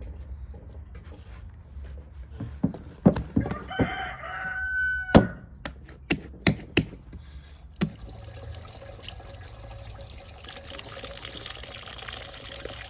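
A rooster crows once, about four seconds in, among a run of sharp knocks and clatters. From about eight seconds a steady hiss takes over.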